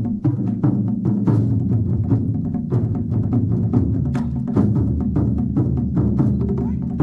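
Drum ensemble playing large drums in a rapid, steady stream of strikes over a deep, sustained ringing.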